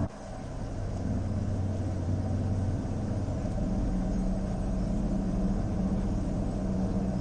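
Low, steady rumbling drone of dark ambient background music, fading in over the first second after an abrupt cut.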